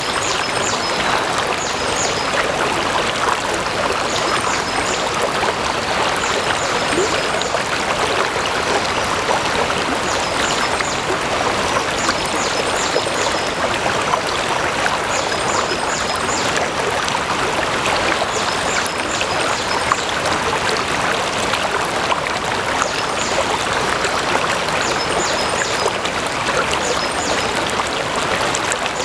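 A stream of water flowing steadily over stones, an even rushing and trickling. High, faint chirps come in short groups every couple of seconds.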